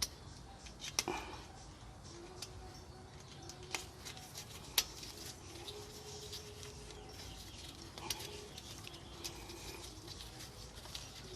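Scattered light clicks and taps of brake pads and their retaining clip being handled and worked into a disc brake caliper, about six separate sharp ticks spread over several seconds.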